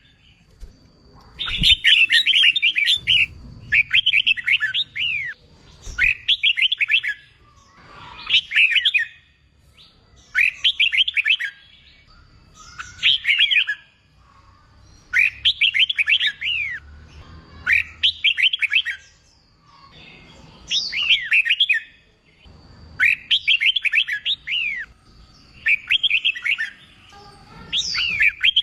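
Red-whiskered bulbul singing: short phrases of quick, twisting whistled notes, each about a second long, repeated roughly every two seconds.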